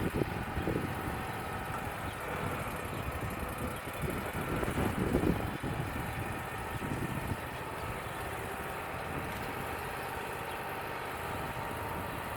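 Wood-Mizer LT35 band sawmill's engine running steadily, with uneven louder low rumbles through the first half.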